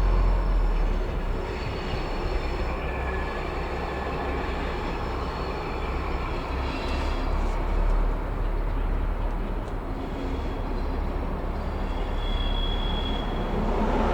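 Class 218 diesel-hydraulic locomotive rumbling low and steady as it moves slowly on the rails, with faint high wheel squeal here and there.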